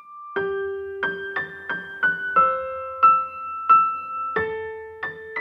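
Background music: a simple piano or electric-piano melody, single notes struck about every half second.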